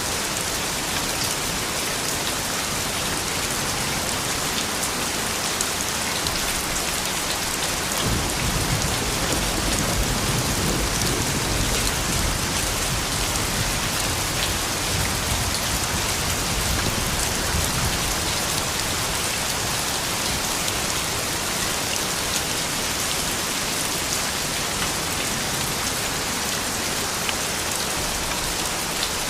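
Steady rain falling on a surface, a dense hiss full of fine drop ticks. A low rumble swells about eight seconds in and fades again by about twenty seconds.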